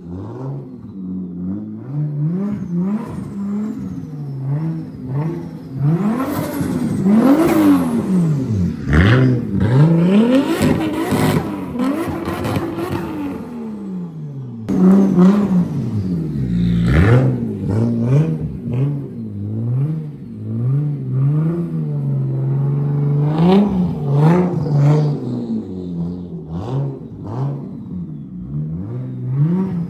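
Toyota Chaser JZX100's turbocharged 1JZ straight-six being revved hard again and again, its note climbing and dropping every second or two. A hiss rides over it through the middle.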